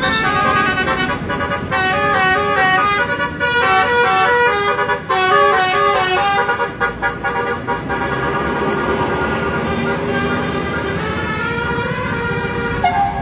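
Multi-tone vehicle horn playing a quick melody of short stepped notes, several notes a second, before settling into steadier held tones in the second half.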